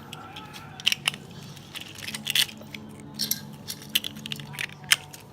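Plastic toy train engines and cargo trucks being handled and coupled together, a string of small sharp clicks and clacks.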